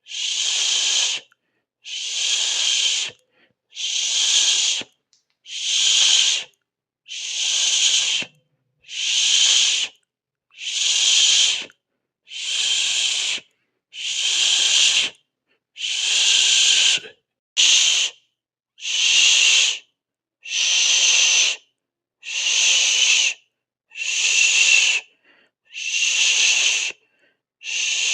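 A person hissing through the teeth again and again, each hiss about a second long with a short pause between, roughly one every 1.7 seconds.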